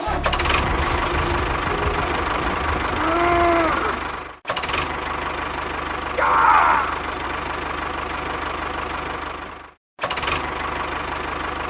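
An engine running steadily with a low, even rumble. It cuts off abruptly about four seconds in and again near ten seconds, restarting at once each time, with a brief pitched sweep and a short louder burst between.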